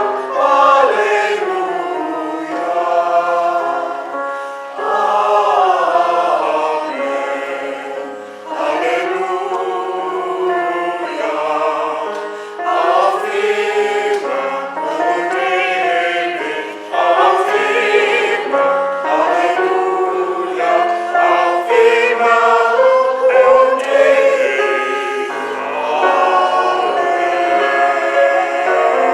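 Church choir singing a hymn, several voices together in phrases of a few seconds, with short breaths between them.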